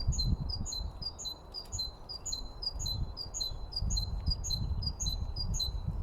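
A small songbird singing a long run of repeated two-note phrases, a high note then a lower one, about two and a half per second. A low rumbling noise runs underneath.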